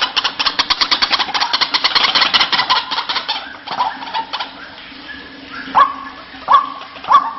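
White-breasted waterhen calling: a fast, harsh chattering run of notes for the first three seconds or so, then after a short lull, loud repeated 'kwaak' notes about one every 0.6 s from about six seconds in.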